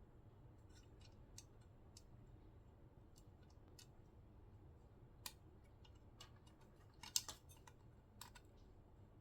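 Faint, scattered clicks and taps of small broken plastic pieces of a radio cassette recorder being handled and set down, with a small cluster of clicks about seven seconds in.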